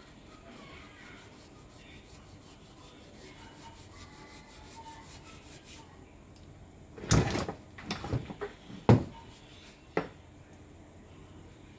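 A handful of knocks and scrapes, like hard objects being handled and set down on a work surface. They come as a cluster about seven seconds in, then one sharp knock near nine seconds and a last one near ten.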